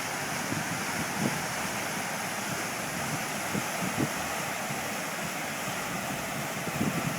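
Steady rushing of a river running high and fast after a typhoon, with occasional short low thumps from wind on the microphone.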